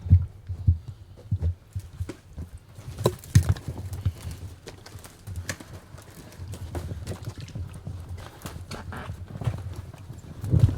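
Footsteps of people walking: irregular low thuds and scuffs, with a few louder thumps near the start and about three seconds in.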